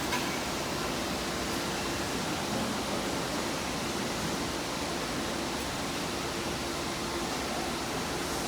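Steady rushing noise of running industrial machinery, with a faint low hum underneath.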